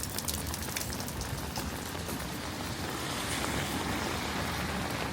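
Steady rain pattering, with many small drops ticking close by, and a smoother hiss swelling about three seconds in.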